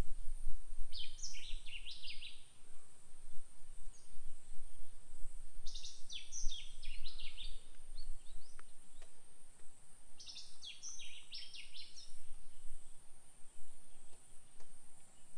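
A bird sings three short phrases of quick, high notes, each about a second and a half long and about four seconds apart, over a steady high-pitched insect drone.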